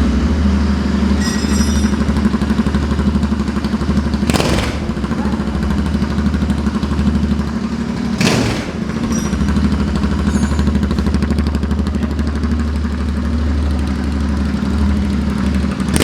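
Royal Enfield Interceptor 650's parallel-twin engine running at a steady idle with both silencers removed, so it exhausts straight out of the open header pipes. Two short sharp cracks come about four and eight seconds in.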